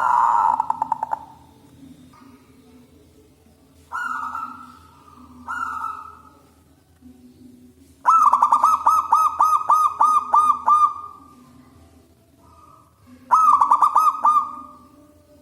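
Zebra dove (perkutut) cooing in several phrases of quick repeated notes, the longest lasting about three seconds at about four notes a second.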